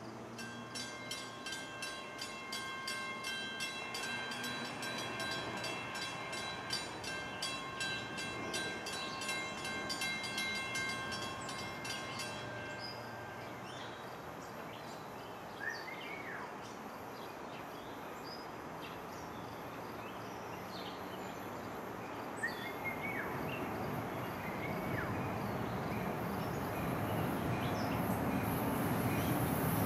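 A bell rings rapidly and evenly for about twelve seconds, then stops. The rumble of an approaching train then grows steadily louder.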